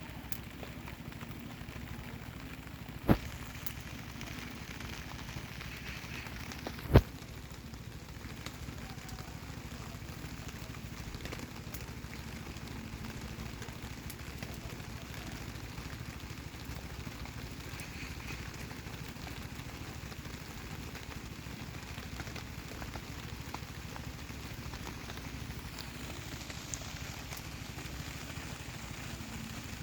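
Wood campfire burning in steady rain: an even hiss of rain and fire, with two sharp, loud pops, one about three seconds in and one about seven seconds in.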